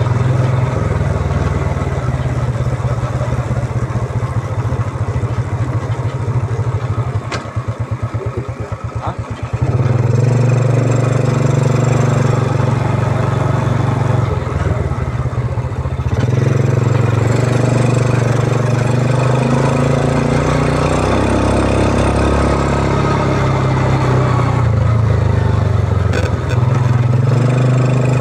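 Yamaha Vega R underbone motorcycle's single-cylinder four-stroke engine running while riding. About a third of the way in it eases off to a slower, quieter pulsing beat for a few seconds. Near the 10-second mark it picks up again, and it rises once more about halfway through.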